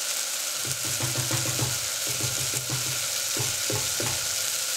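Chopped red onion and garlic sizzling steadily in a stainless steel saucepan. About a second in there is a low spluttering lasting a couple of seconds, then a few soft taps.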